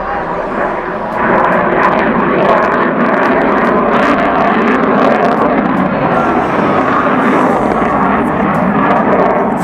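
Military jet aircraft engine noise, getting louder about a second in and then holding steady.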